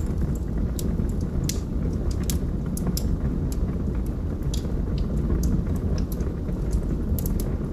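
Wood fire burning in a fireplace: a steady low rumble of flames, with sharp, irregular crackles and pops from the burning logs.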